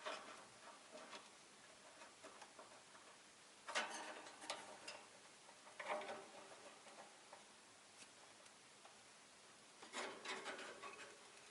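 Faint scratching and clicking from a caged rosy-faced lovebird, in four short bursts with near silence between them.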